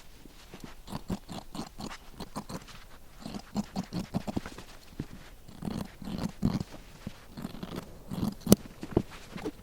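Paper sewing-pattern sheets crunching and crinkling in a run of short, uneven crisp sounds as they are handled and cut.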